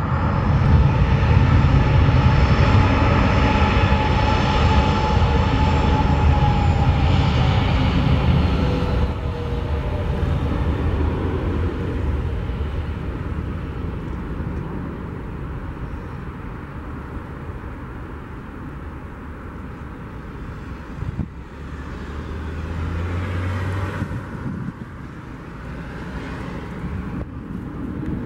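Engine noise of an aircraft flying past: a loud roar with a slowly falling tone over the first eight seconds, then fading.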